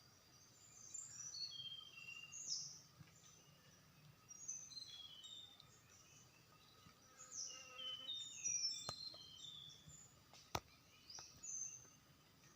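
Wild songbird known in Indonesia as tledekan singing in quick runs of short, thin, high notes that step down in pitch, phrase after phrase. A few sharp clicks sound near the end.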